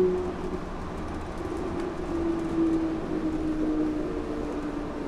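Yurikamome rubber-tyred automated train running, heard from inside the car: a steady rumble of running noise with a motor whine that comes in about two seconds in and slowly falls in pitch as the train slows toward the next station.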